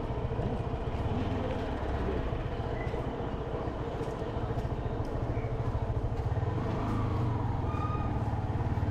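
Motorcycle engine running at a steady pace while riding, its firing pulses dense and low, with road and wind noise.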